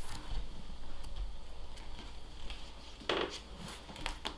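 Pokémon trading cards being handled and flipped through, with small rubs and ticks of card against card and a brief louder rustle about three seconds in.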